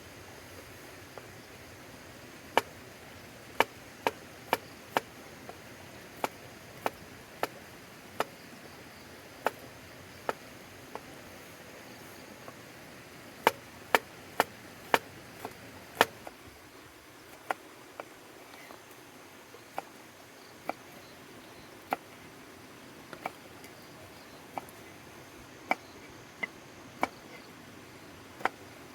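Chopping with a knife: sharp, irregular knocks, several in quick succession and then pauses, with the loudest run about halfway through.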